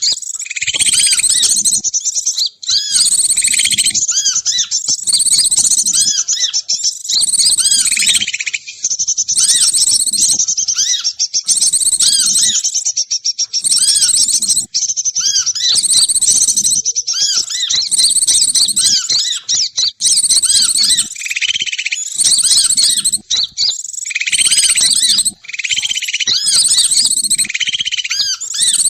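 Bird-lure call recording: loud, dense, high-pitched bird chirping repeated in short bursts every second or two, the kind of looped call played to draw wild birds down to a trap.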